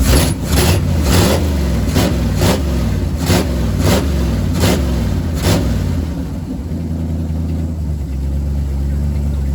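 Chevy small-block 400 V8 with a freshly fitted Holley carburetor running just after starting, uneven at first with sharp bursts about twice a second, then settling into a steady idle about six seconds in.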